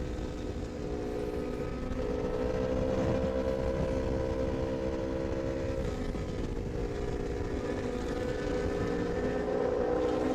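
Sport motorcycle engine running at high, fairly steady revs while riding at speed, its pitch dipping slightly about six seconds in and climbing again near the end, over a rush of wind noise.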